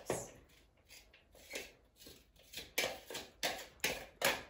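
A kitchen utensil knocking and scraping against a bowl or board in a series of short, sharp strokes, about one a second at first and coming faster, about two a second, in the second half.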